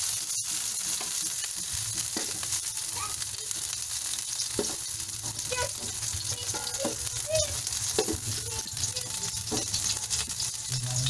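Green beans frying in a steel wok, with a steady sizzle and light clinks and scrapes as the beans are moved about in the pan.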